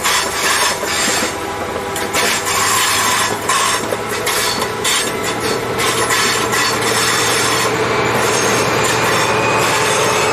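High Speed Train passing close by: the coaches' wheels clattering and rushing on the rails, then the rear Class 43 diesel power car going past, leaving a steadier engine hum with a thin whine rising slightly near the end.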